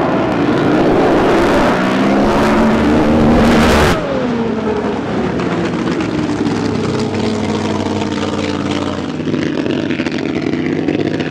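Drag boat's supercharged racing engine at full throttle. About four seconds in it cuts off abruptly as the driver lifts off the throttle, then runs on at a lower level with its pitch falling.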